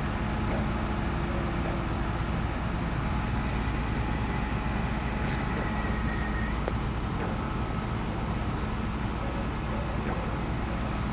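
Crane truck's engine running steadily with a low drone. A faint high whine rises slightly from about three seconds in and cuts off near six and a half seconds.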